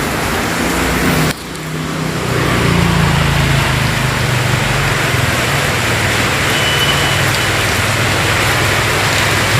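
Heavy rain falling steadily, with a vehicle engine running low underneath; the level dips briefly about a second in.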